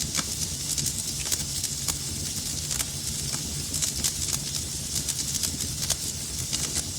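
Wood fire burning in a fireplace, a steady low rumble and hiss with frequent irregular sharp crackles and pops.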